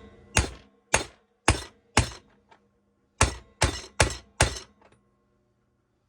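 Eight sharp, ringing blows driving a new crankshaft main bearing into a Stihl TS 400 crankcase half, in two runs of four. The blows sound harsh because the case springs on the bench and flexes rather than letting the bearing seat.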